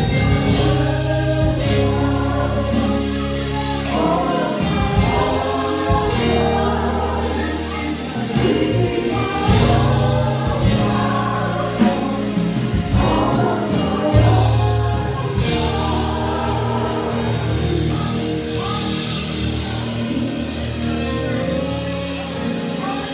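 Gospel praise team singing with a live band: voices over bass and drums.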